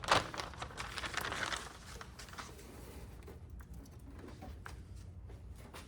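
Stiff sound-deadening sheet crinkling and crackling as it is handled and peeled, with a sharp snap right at the start; the crackling thins out to scattered light clicks after about a second and a half.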